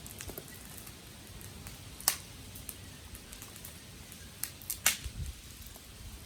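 Wood fire crackling: scattered sharp pops and snaps over a faint hiss, the two loudest about two seconds in and near five seconds.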